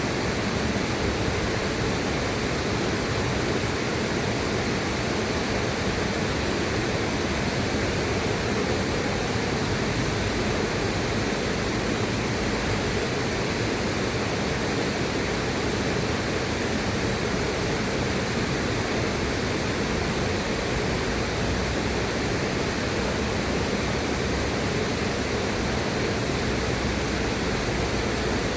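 River water rushing steadily, an even unbroken hiss with no separate splashes or changes.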